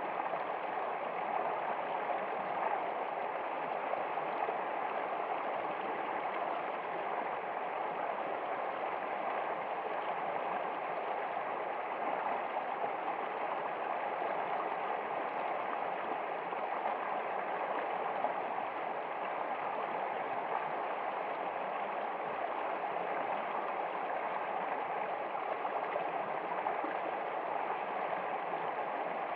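Flowing water, like a stream, making a steady, even rush with no breaks or changes.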